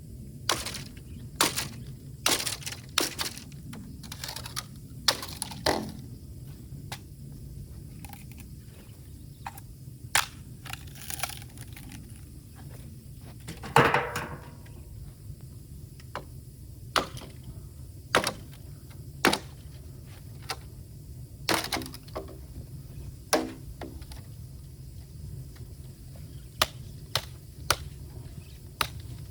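Bamboo burning in a bonfire, with irregular sharp cracks and pops over a steady low rumble of fire.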